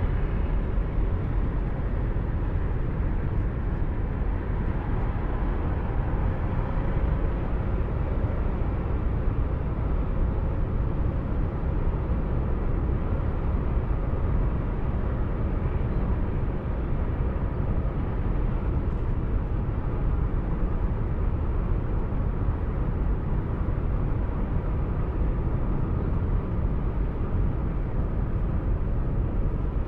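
Steady rumble of a car driving along a road, with tyre and engine noise picked up by a dashcam.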